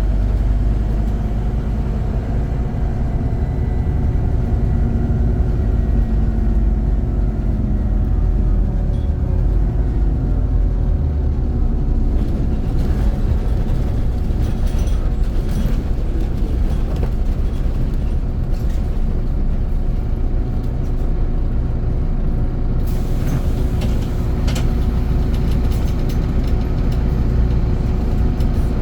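Scania CN270UB city bus running, its engine and drivetrain rumbling steadily, with the engine note gliding over the first ten seconds or so. A higher hissing noise joins about two-thirds of the way through and carries on to the end.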